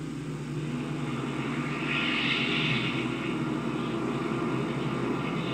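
Twin-engine propeller airliner's engines running at takeoff power during the takeoff run: a steady drone that swells a little about two seconds in.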